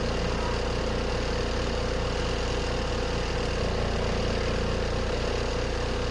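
Compact RV washing machine running its spin cycle: a steady motor hum with a strong even tone, unchanging throughout.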